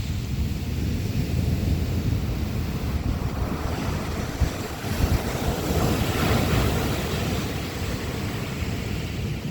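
Ocean surf with wind buffeting the microphone. A wave breaks and washes in, swelling louder from about halfway through.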